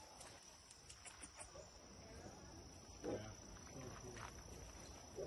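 A steady high-pitched insect trill, with a few short, louder sounds about three seconds in and again near the end.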